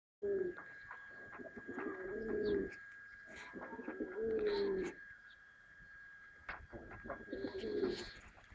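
Domestic pigeons cooing: three long, low coos a second or two apart, with scattered light clicks and a steady thin high tone behind them.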